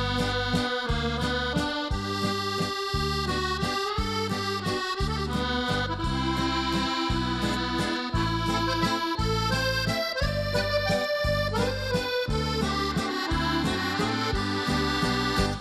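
Accordion music with a steady oom-pah bass beat and a melody line above it, stopping suddenly at the end.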